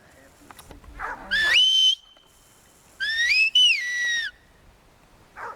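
Two herding whistle commands to a sheepdog. The first is a short whistle that sweeps up and holds, about a second and a half in. The second, about three seconds in, rises, breaks, then drops and holds.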